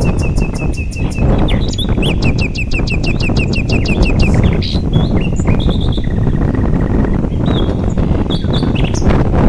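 Small birds chirping in quick trills of short repeated notes, several calls overlapping and changing pattern every second or two, over a loud steady rush of river water.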